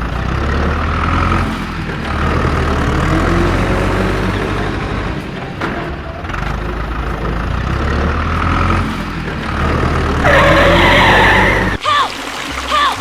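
Motor vehicle engines running with a steady low drone. Near the end comes a loud screeching burst, then a few short squeals.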